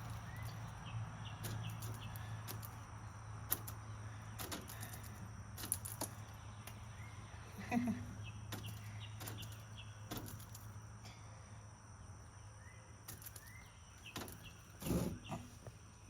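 A chicken pecking June bugs off a window and wall: sharp, irregular taps, about one a second, over a steady low hum, with a louder thump near the end.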